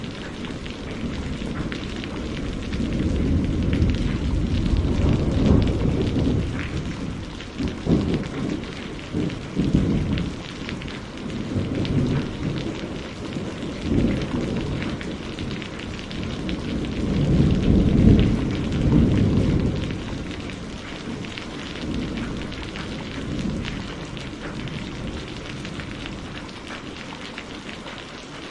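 Steady rain falling, with low rolling thunder that swells and fades several times, loudest in one long rumble a little past the middle.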